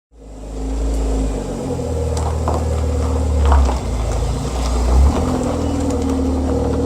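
Car engine running at idle, its low note shifting a few times, with faint clicks over it.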